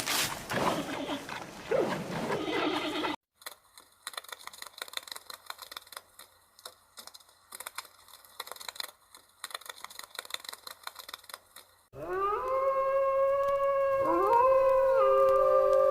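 A dog's yelping, whining calls for a few seconds, then a long quiet stretch with faint ticks. Near the end come several canines howling together, long held notes overlapping and gliding in pitch.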